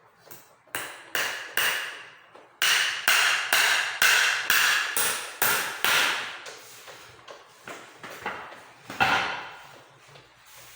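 Hammer blows on a school chair under repair, a steady run of sharp knocks about two a second, each ringing briefly.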